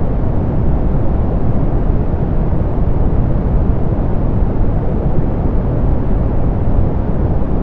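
Steady soft pink noise: an even, unchanging hiss weighted toward the low end, with little above the upper treble.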